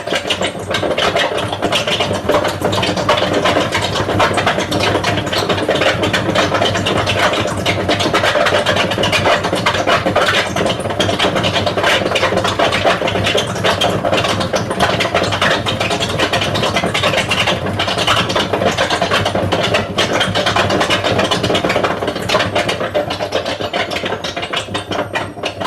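Hotpoint Aquarius WML540 washing machine running its spin cycle: a loud, steady mechanical noise with constant clicking and rattling from the turning drum. Near the end a high whine starts to rise as the drum picks up speed.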